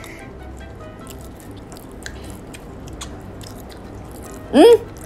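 Quiet chewing and small mouth clicks of people eating fried silkworms and rice by hand, over faint background music. About four and a half seconds in, one short, loud vocal exclamation rises and falls in pitch.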